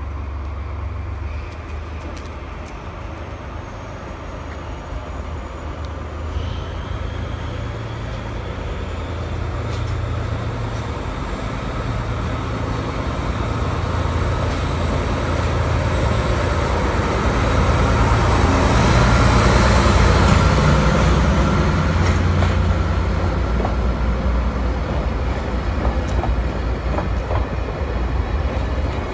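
DE10 diesel-hydraulic locomotive approaching and passing with its diesel engine running, followed by the rumble and clickety-clack of the wheels of the new E721-series cars it hauls. The sound builds to its loudest about two-thirds of the way through, then stays at a steady passing rumble.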